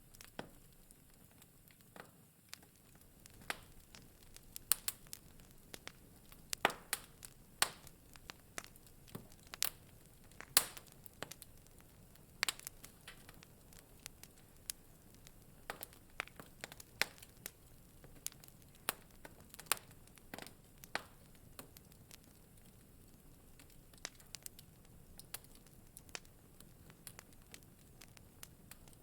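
Wood fire crackling in a fireplace: irregular sharp pops and snaps over a soft steady hiss of burning logs, busier in the first half.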